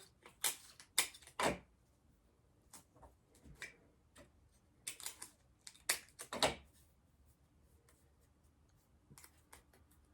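Paper and tape being handled: short, sharp crinkles and taps in two clusters of strokes, with scattered lighter ticks near the end.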